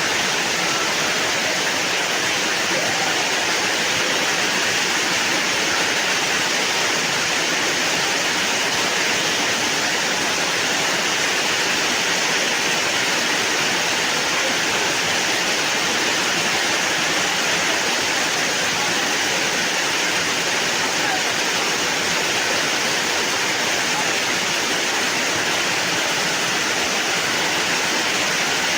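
Fast-flowing floodwater rushing steadily, an even, unbroken sound.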